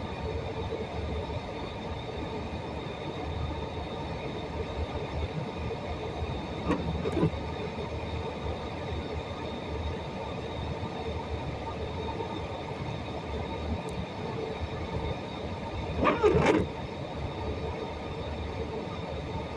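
Steady rumbling background noise, with two brief louder sounds about 7 and 16 seconds in, the second one the loudest.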